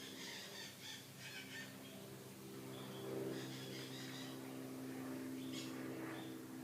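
Faint, short bird chirps a few times over a steady low hum.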